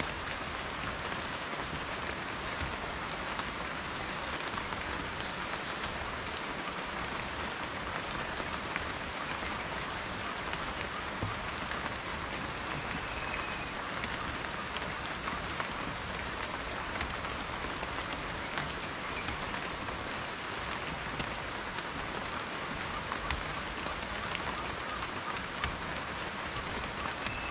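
Steady rain falling, with individual raindrops ticking on a surface.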